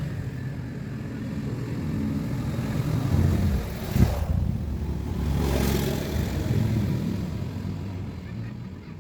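Car engine running, rising and falling in level a few times, with one sharp knock about four seconds in; it fades near the end.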